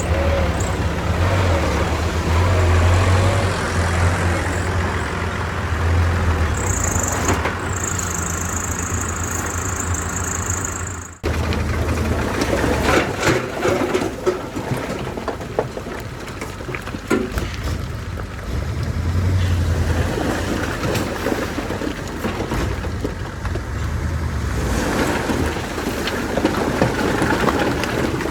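Heavy diesel earthmoving machinery, a bulldozer and dump truck, running and working with a steady deep engine rumble. A steady high hiss of air lasts about four seconds, and the sound cuts off abruptly for a moment about eleven seconds in.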